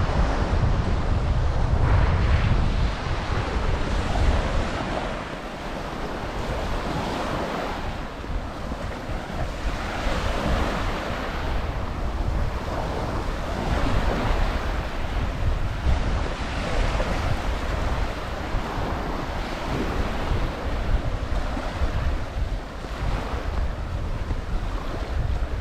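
Ocean waves washing onto a sandy beach, with wind rumbling on the microphone, heaviest in the first few seconds.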